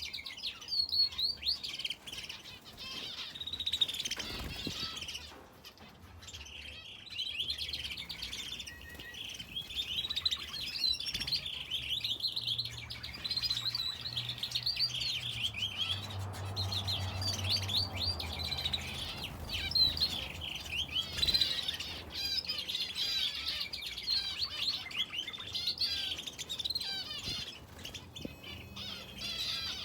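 Aviary finches and a canary chirping and twittering busily, many quick overlapping calls with hardly a gap. A low hum sits underneath for a few seconds in the middle.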